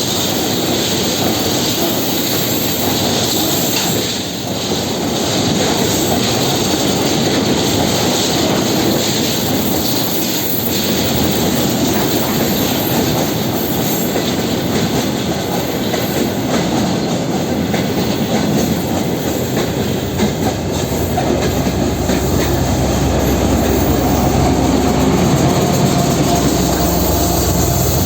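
A diesel-hauled work train rolling past, its wagon wheels clattering steadily over the rail joints. In the last several seconds a low diesel locomotive engine drone grows louder.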